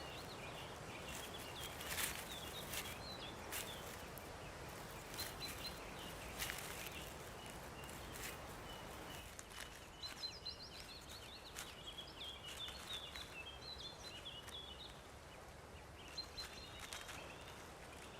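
Faint forest ambience: small songbirds chirping and twittering in the background in scattered bouts, with occasional sharp clicks or knocks.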